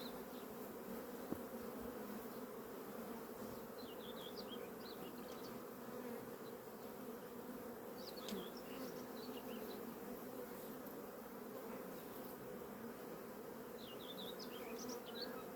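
Honeybee colony humming steadily at an open hive, a low, even buzz.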